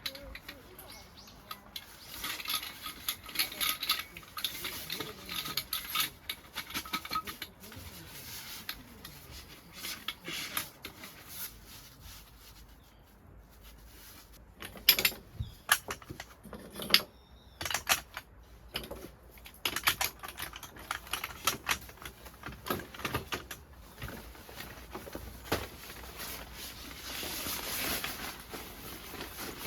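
Irregular clicks, taps and light knocks of objects being handled, over soft rustling, with a denser run of sharp clicks in the second half.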